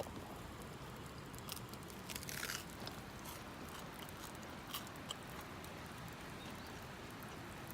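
A person biting into and chewing caramelised, sugar-coated food, quiet crunches about two seconds in with a few small clicks after.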